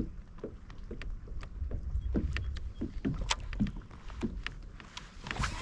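Irregular light knocks and clicks from a fishing kayak and its gear, over a steady low rumble.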